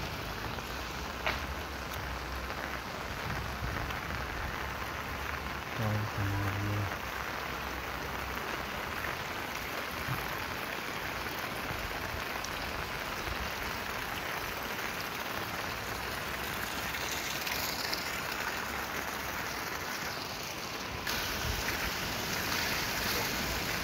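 Steady rain falling on floodwater and a wet road, an even hiss that grows a little louder near the end.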